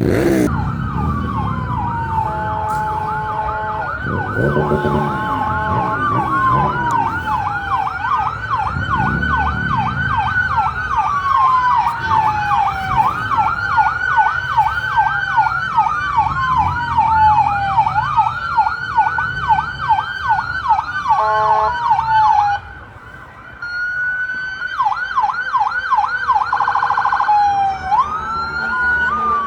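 Emergency vehicle sirens on fire apparatus sounding together. They switch between slow wails, fast yelps and a very fast warble, over a low vehicle rumble. The sirens dip briefly about two-thirds of the way through.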